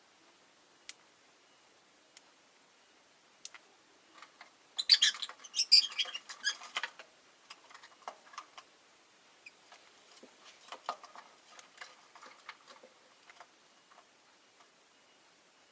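Rosy-faced lovebirds chirping: a few isolated sharp ticks, then a burst of loud, shrill chirps about five seconds in lasting around two seconds, followed by scattered softer chirps and clicks.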